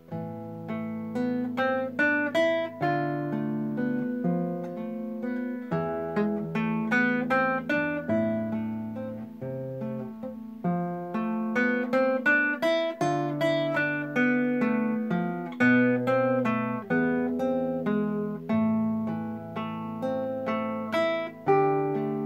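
Solo acoustic guitar playing a melodic piece: a stream of plucked melody notes over held bass notes.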